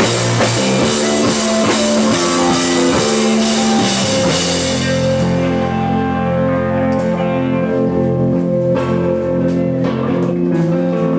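Live rock band playing an instrumental passage on guitars, bass and drums. About four and a half seconds in, the bright crashing top end drops away, leaving sustained guitar chords over scattered drum hits.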